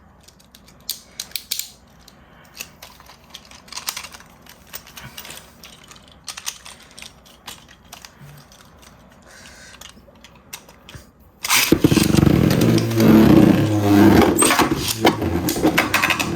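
Faint clicks and handling of plastic parts, then about eleven seconds in a sudden loud whirring and clattering as Beyblade Burst spinning tops are launched and spin and collide in a plastic stadium.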